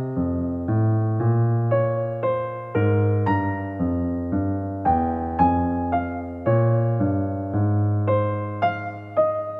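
Soft background music on electric piano: single notes and chords played one after another, each one fading after it is struck.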